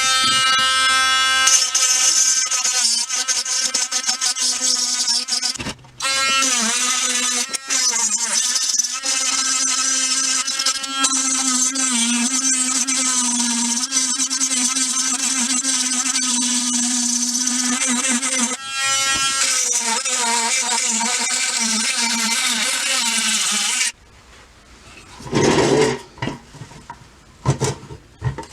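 Handheld electric power tool motor whining at high speed, its pitch dipping and wavering as it works against the metal. It pauses briefly twice and cuts off near the end, leaving a few faint clinks.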